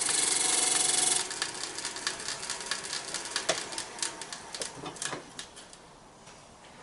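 A turning tool cutting into wood spinning on a lathe, a loud harsh hiss of shavings for about the first second. It is followed by irregular ticks and taps that fade out about five seconds in.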